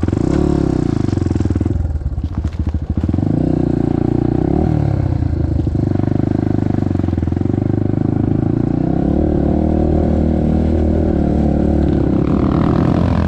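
Yamaha TT-R230 trail bike's air-cooled four-stroke single running while riding, its pitch rising and falling with the throttle. Choppy clattering about two to three seconds in, then steadier running.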